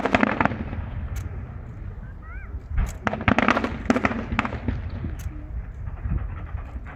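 Fireworks going off: dense crackling volleys of sharp bangs over a low rumble, one cluster at the start and another about three seconds in.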